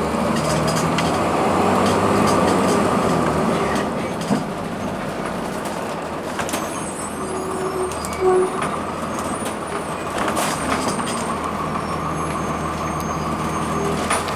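2002 Blue Bird CS transit bus's Cummins ISC inline-six diesel and Allison B400R automatic transmission running under way, pulling a little harder for the first few seconds and then easing off, with a steady whine and scattered rattles and clicks.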